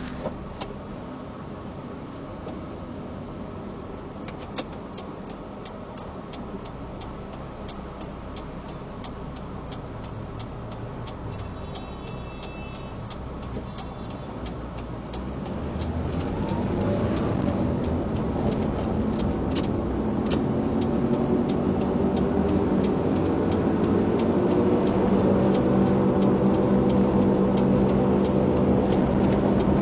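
Vehicle engine running steadily at low speed, then from about halfway accelerating, its pitch climbing steadily and its sound growing louder. A faint, rapid, even ticking runs through the first half.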